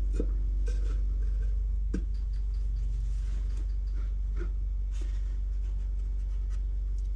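Light scraping and a few soft knocks of wooden boards being handled and fitted together, over a steady low hum.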